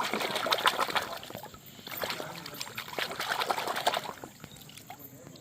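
Water pouring and splashing in two bursts, each about a second and a half to two seconds long, with a fizzy, crackly texture.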